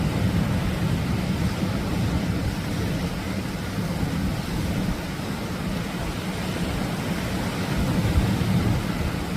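Atlantic surf breaking along the shore: a steady, heavy low rumble with a hiss of foam over it, swelling slightly near the end.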